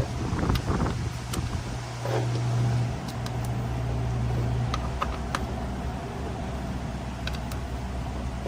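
Steady low machine hum, easing off a little about three seconds in, with a few sharp light clicks scattered through it.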